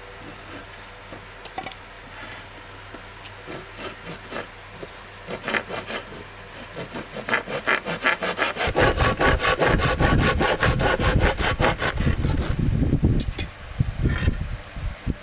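Hand saw cutting wood. It starts with light, scattered strokes, settles about halfway in into fast, steady back-and-forth strokes of about five a second, then slows near the end.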